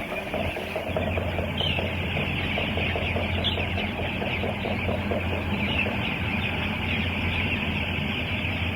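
A dense chorus of many broiler chickens cheeping and peeping together over a steady low hum.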